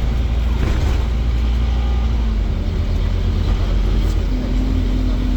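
Scania Omnicity double-decker bus's five-cylinder diesel engine running, a steady low rumble, with a steady whine joining about four seconds in.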